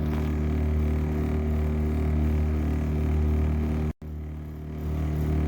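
Boat motor running steadily at cruising speed, with wind and water noise over it. The sound drops out for an instant about four seconds in, then the motor carries on.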